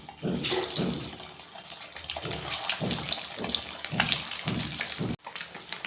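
Turmeric-coated boiled eggs sizzling and crackling in hot oil in a kadhai, a steady hiss with many small pops. The sound cuts off suddenly about five seconds in and then picks up again.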